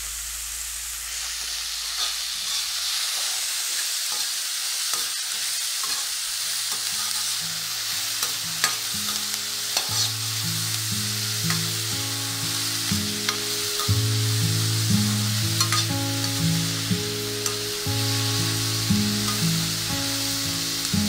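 Chopped onions, carrots, beans and peanuts sizzling in hot oil in a wok, with a spoon scraping and tapping as the mix is stirred. Soft background music with stepped low notes comes in about six seconds in.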